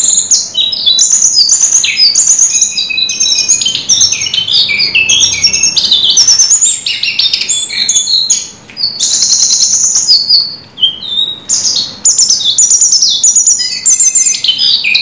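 A jongkangan (brown cingcoang, the lesser shortwing) singing loudly and without letup, a fast tumble of varied high whistled and trilled notes. It breaks off briefly twice along the way.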